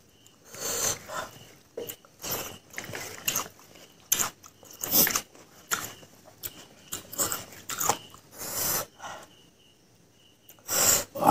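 Close-miked eating sounds: a man chewing mouthfuls of rice and pork, with sniffs and sharp breaths in between, in irregular bursts that pause for about a second near the end.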